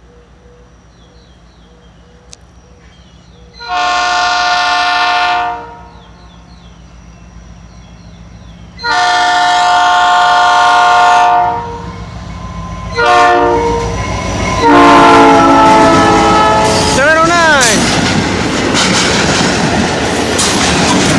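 EMD SD40-2 diesel locomotive's multi-note air horn sounding the grade-crossing pattern: two long blasts, a short one, then a long one whose pitch drops as the locomotive passes. The train then rolls by with the locomotive's engine running and wheels clattering on the rail joints.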